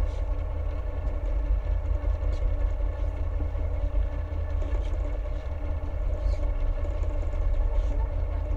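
Dhoni's engine running steadily underway, a constant low drone with a steady hum over it.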